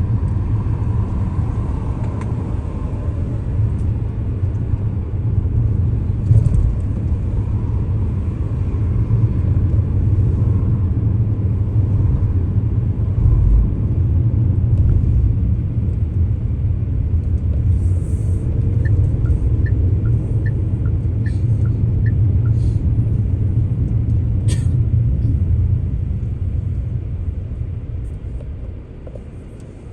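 Steady low rumble of a car driving, road and engine noise as heard from inside the vehicle. Partway through comes a run of faint even ticks about two a second, then a single sharp click. The rumble fades near the end.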